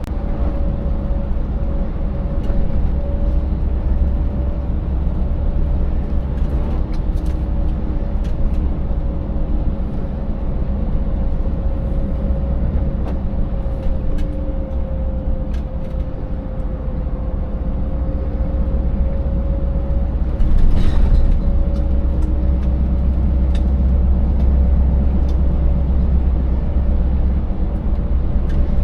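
Scania 590S V8 truck driving: a heavy, steady low rumble of engine and road with a steady whine over it that dips slightly in pitch midway and comes back. Scattered knocks and rattles come from running over a rough, broken road surface.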